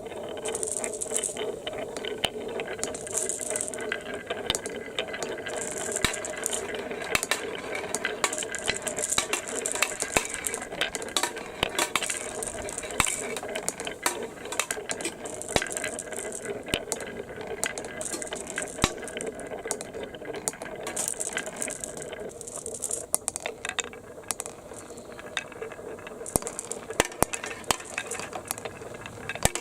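Plastic marble-run balls clattering and clicking rapidly along the track, over a steady mechanical hum, with short hissing swishes every second or two.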